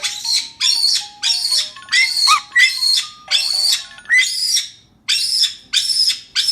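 Amazon parrot squawking in a quick series of short, harsh calls, about two a second. A faint simple tune of single notes steps up and down underneath.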